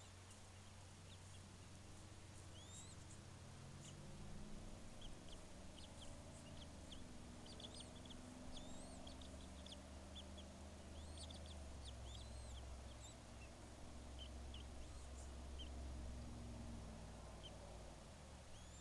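Faint, high-pitched bird chirps: many short rising and falling notes, busiest in the middle, over a steady low rumble.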